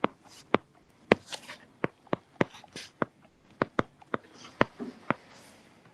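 Keys being pressed: sharp single clicks at uneven spacing, about two to three a second, with soft scratchy noise between some of them.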